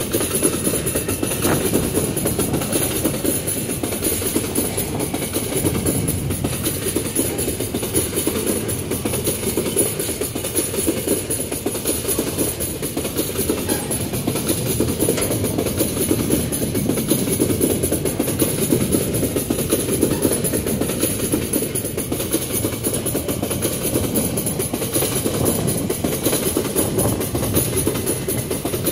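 Empty steel gondola ore wagons rolling past close by: the steady rattle and rumble of their wheels running over the rails.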